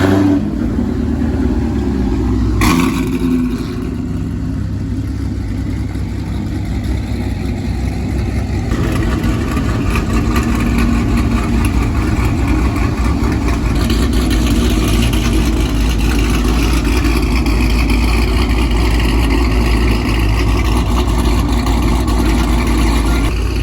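Car engine running with a steady deep rumble, growing somewhat louder about nine seconds in. There is one sharp knock about three seconds in.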